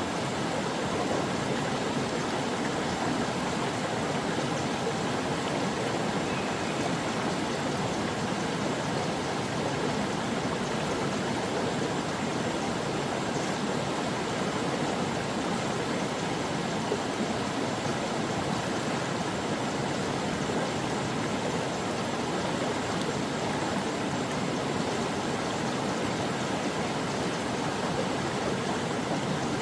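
Stream water flowing and splashing over rocks, a steady, even rush with no pauses.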